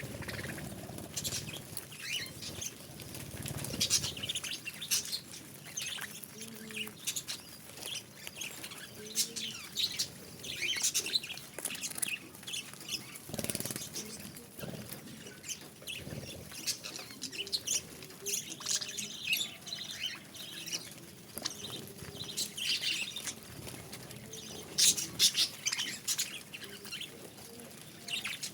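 A group of budgerigars chirping and chattering continually in many short, high chirps, with a few soft low thumps among them.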